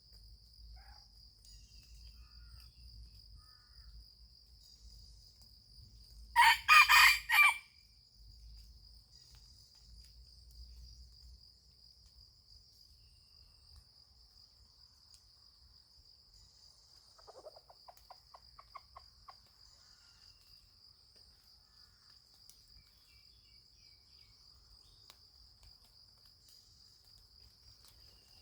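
A junglefowl cock crows once, a loud call of about a second and a half, about six seconds in. A quieter, rapid stuttering call follows about eleven seconds later. Insects keep up a steady high drone throughout.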